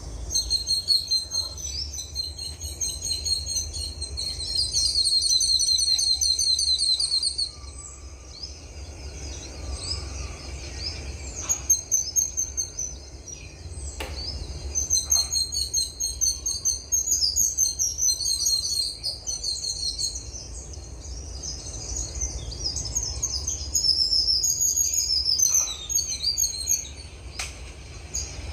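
Several songbirds singing and chirping at once in a dense, high-pitched chorus. One rapid trill stands out from about four and a half seconds to seven and a half seconds in. A steady low rumble runs underneath.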